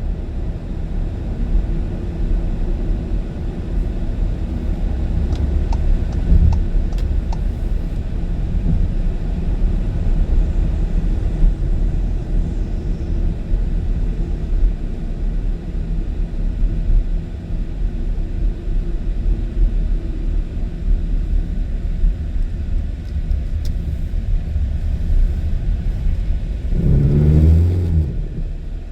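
Car driving on a highway: a steady low rumble of road and engine noise. Near the end a louder swell with a rising pitch lasts about a second.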